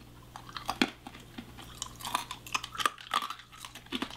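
A man chewing a piece of hard-candy sucker with a real scorpion encased in it, with many irregular sharp crunches.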